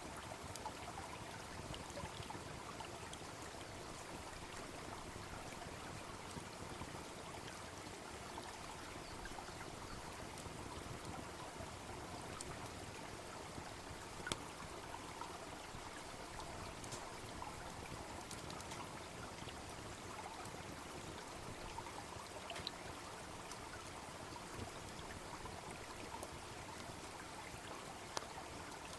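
Babbling brook running steadily, with a few sharp pops from a wood campfire crackling now and then, the loudest about halfway through and another near the end.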